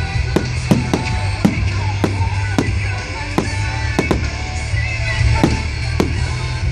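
Fireworks going off at a display: a string of sharp, irregularly spaced bangs, about two a second, over loud music with a heavy bass.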